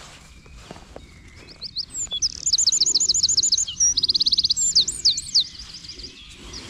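A songbird singing: fast runs of high repeated notes lasting about three seconds, changing partway into a different rapid phrase and ending with a few separate downward notes.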